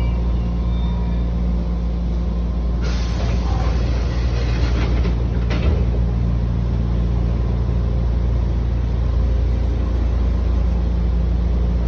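Pneumatic door engines of a Sanyo Electric Railway 3000 series train working: a hiss of air starts about three seconds in and lasts about three seconds, ending in a knock as the doors come to a stop. A steady low hum from the standing train runs underneath.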